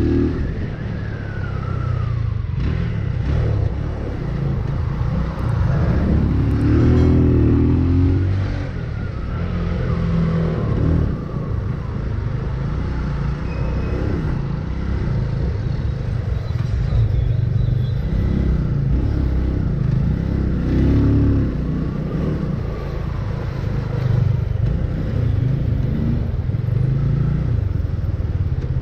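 Road traffic: car and motorcycle engines in heavy, slow-moving traffic. A steady low rumble that swells now and then as vehicles go by.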